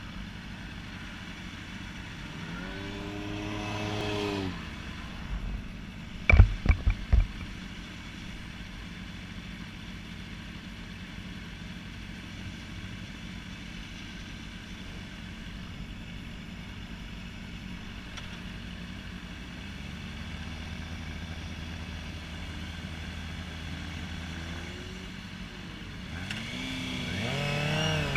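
Honda CBR600RR inline-four engine running low, revving up and back down a few seconds in and rising in revs again near the end. A short cluster of sharp knocks comes about six seconds in.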